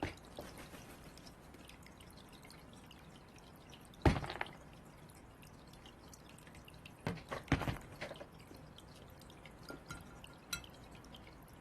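A few sharp taps and knocks over a faint, steady background: one loud knock about four seconds in, a pair of knocks a little past the middle, and light ticks near the end.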